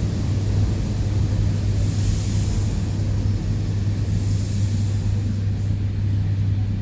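ED9E electric train running with a steady low hum as it slows for a station stop, with two short hisses of air from the brakes about two and four and a half seconds in.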